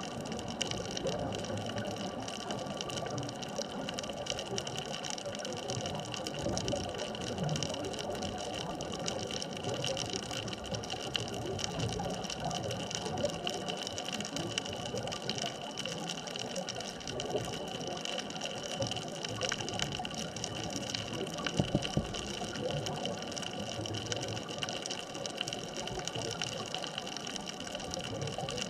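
Underwater ambient noise at a deep artificial reef: a steady hiss with fine crackling and a few faint constant hums, and an occasional soft knock.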